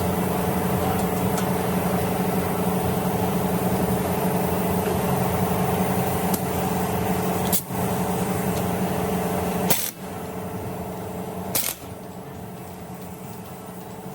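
2013 Nissan Murano's V6 engine running with a steady hum. A few sharp clicks break in, and the sound drops quieter about ten seconds in.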